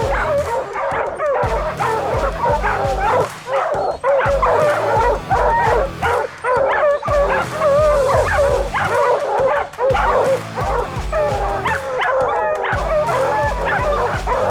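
A pack of hunting hounds baying and yelping together nonstop, many overlapping voices, at a bear they have treed.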